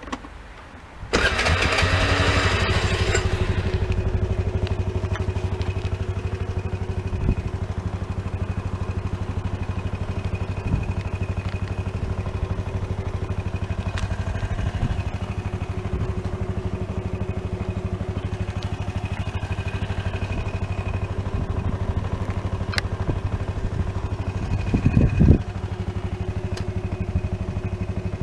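Piaggio Vespa ET4 125 scooter's four-stroke single-cylinder engine being started: a click, then about a second in the electric starter cranks and the engine catches, running loud for a couple of seconds before settling into a steady idle. Near the end the revs rise briefly and drop back to idle.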